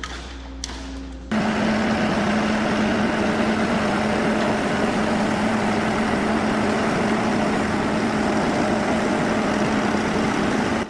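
Heavy machine's engine running steadily and loud, with a steady droning tone, cutting in abruptly about a second in after a faint low hum.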